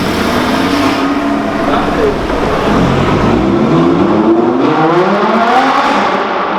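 A car engine revving hard and accelerating away, its pitch climbing in long rising pulls.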